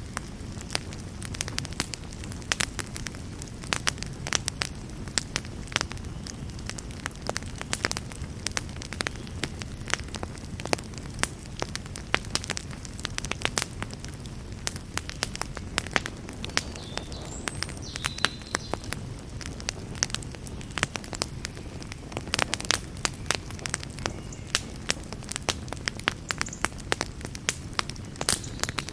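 Campfire burning, its wood crackling and popping in frequent irregular sharp snaps over a steady low rumble.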